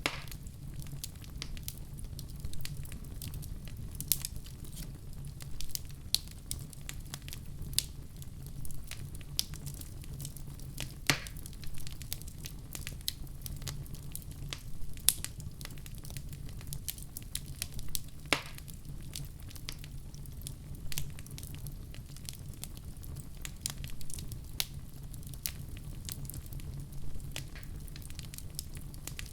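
Wood fire in a fireplace crackling and popping, irregular sharp snaps over a steady low rumble, with a few louder pops.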